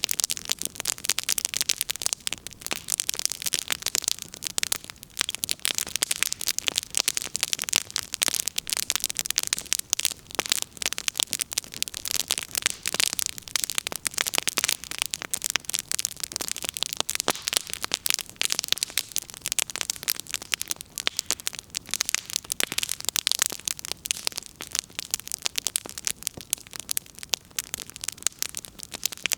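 Wood fire crackling: burning firewood giving off a dense, continuous run of sharp pops and snaps over a steady hiss.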